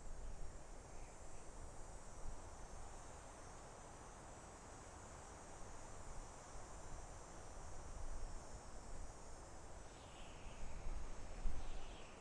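Soft wind through forest trees, a steady rustling hiss, over a faint high insect trill. A few short bird calls come near the end.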